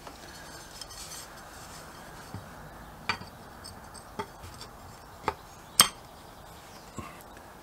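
Metal hand tools and bolts clinking as they are handled during motorcycle cover reassembly: a handful of sharp, separate clinks a second or so apart, the loudest about six seconds in.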